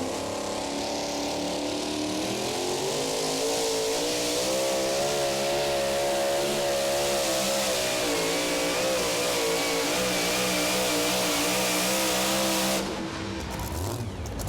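Super modified two-wheel-drive pulling truck's engine at full throttle, pulling a sled down the track. Its pitch climbs over the first few seconds, then holds high and wavers, and the engine cuts off sharply about 13 seconds in.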